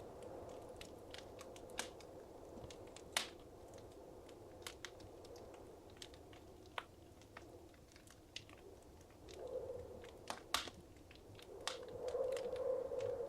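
Fire crackling in a fireplace: irregular sharp pops and snaps over a soft rushing hiss of flame, which swells briefly about nine seconds in and again near the end.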